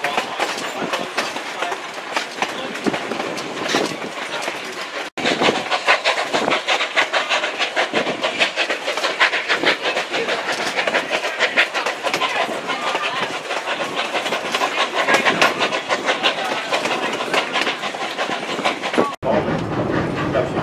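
Narrow-gauge passenger train rolling along, heard from an open car: a steady rattle of wheels on rail with quick clicking over the rail joints. Near the end it cuts to the duller, lower rumble heard inside a closed coach.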